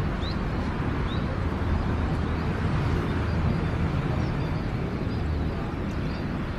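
Steady outdoor rumble, strongest in the low range and even throughout, with a few short, faint high chirps now and then.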